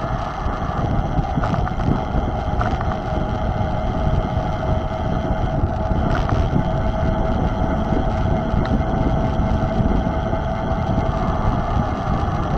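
Wind buffeting the camera microphone during a mountain-bike ride, a dense steady rumble. A steady high whine runs through it, with a few faint clicks.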